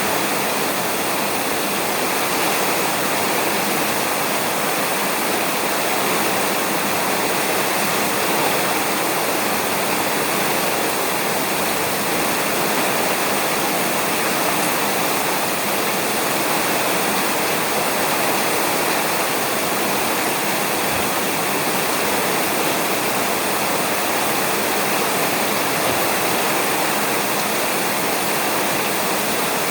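Steady, heavy rain falling on a roof, an even continuous patter with no thunder.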